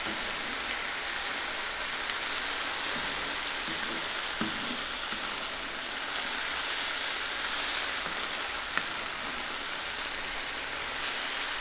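Broccoli, tuna and onion sizzling steadily in oil in a nonstick frying pan over high heat while being stirred with a wooden spatula, with a few light taps of the spatula against the pan.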